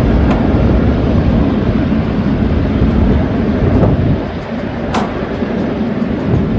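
Aircraft engine noise: a loud, steady low rumble that eases a little about four seconds in, with a short sharp click about five seconds in.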